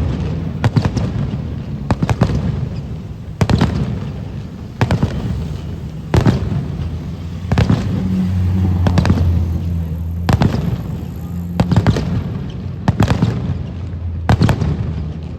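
Aerial fireworks shells bursting in a steady sequence, a sharp bang about every second and a half, some in quick pairs, each followed by a short echoing rumble. A low steady drone runs beneath the bangs.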